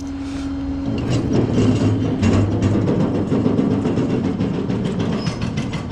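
Tow truck's hydraulic equipment running under load while pulling a non-running truck: a steady hum gives way about a second in to a louder, rough mechanical running noise that eases off near the end.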